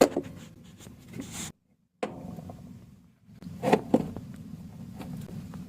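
A few sharp knocks and clatter, loudest about three and a half to four seconds in, over a low steady hum, broken by abrupt cuts.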